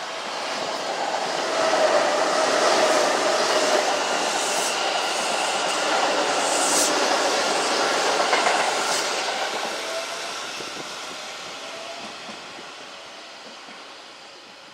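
Kintetsu electric train running past at the station platform, its wheels clacking over the rail joints. The sound builds for about two seconds, stays loud for several seconds, then fades away.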